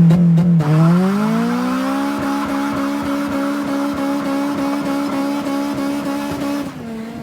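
Honda Civic Si's K-series four-cylinder engine revving: the pitch dips briefly, climbs and then holds steady at high revs for several seconds before falling away near the end.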